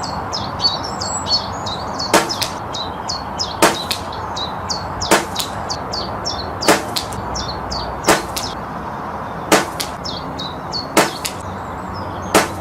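Small birds chirping and twittering, with a sharp click repeating evenly about every second and a half, over a steady rush of wind noise.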